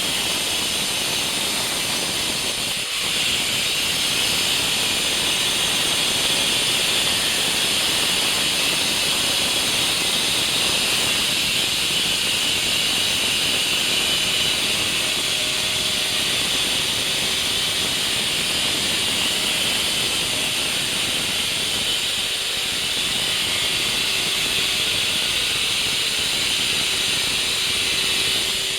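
Fiolent electric wall chaser running under load, its twin cutting discs grinding a channel into a wall, a steady loud high-pitched grinding hiss over the motor's whine, with a brief dip about three seconds in.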